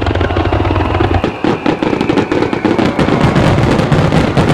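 Aerial fireworks going off in a rapid barrage: deep booms of shell bursts overlapping with dense crackling.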